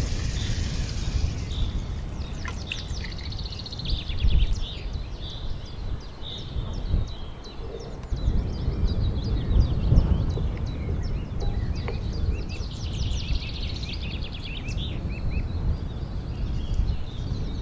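Birds chirping, with quick repeated trills, over a steady low rumble.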